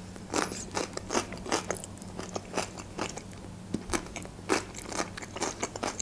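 Close-miked chewing of a cucumber slice: a string of short wet crunches and mouth clicks.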